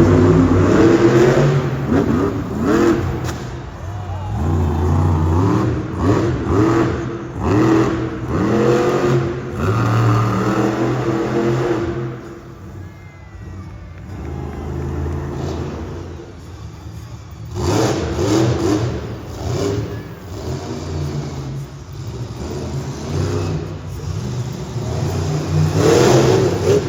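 Monster truck engine revving hard in repeated bursts, its pitch rising and falling with each throttle blip. The revving eases into a lower lull about halfway through, then picks up again.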